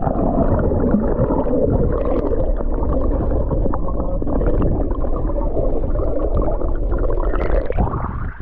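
Sea water heard through a camera held under the surface: a loud, muffled churning and gurgling with the higher sounds cut away, until the camera lifts out of the water near the end.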